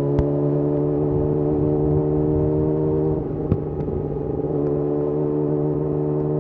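Yamaha YZF-R6's inline-four engine through a de-catted Akrapovic slip-on exhaust, running at steady revs on the move. The note goes briefly ragged about three seconds in before settling again, with a couple of sharp clicks.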